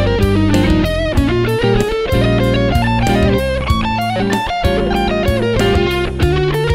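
Electric guitar played through a Caline amp-simulator pedal, its notes bending in pitch, over a backing track with a bass line and a steady drum beat.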